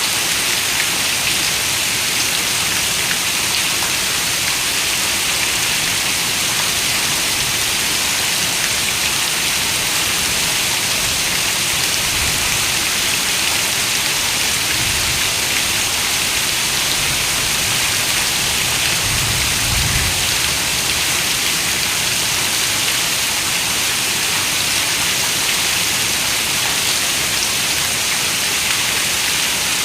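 Heavy rain falling on a window: a dense, steady hiss of drops. Faint low rumbles come in around the middle.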